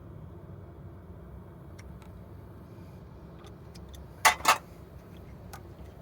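A few faint ticks, then two sharp clinks in quick succession about four seconds in, from hand tools and parts being handled during timing belt and tensioner work on an engine.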